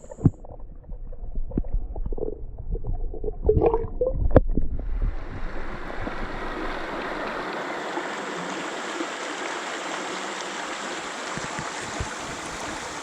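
Scattered knocks and handling thumps with a low rumble for the first few seconds, then a steady rush of flowing creek water.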